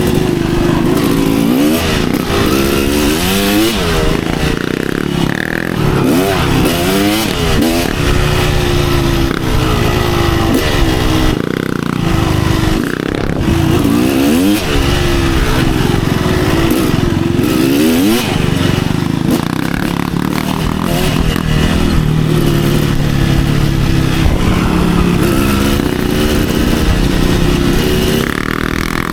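Kawasaki KX250 dirt bike engine revving hard, its pitch climbing and dropping back again and again through the gears.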